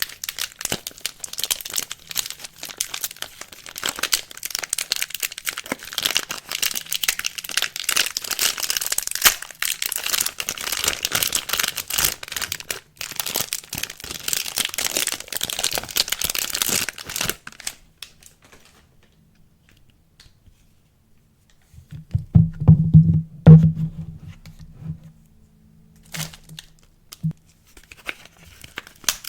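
Plastic soap wrapping crinkling and tearing as soap is unwrapped, stopping after about 17 seconds. After a pause comes a brief low-pitched hum, the loudest sound here.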